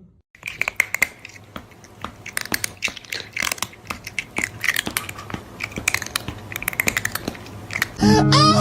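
Irregular crunching and crackling, a rapid uneven run of sharp clicks like something crisp being chewed or crushed.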